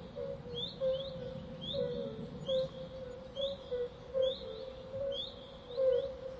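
Birds chirping: short, high rising chirps repeating every half second to a second, over a run of short lower notes.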